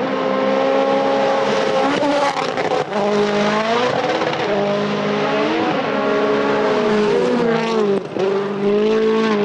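Rally car engine at full racing load, its pitch climbing and dropping repeatedly as the driver shifts gears. About eight seconds in, the note briefly lifts off before pulling again.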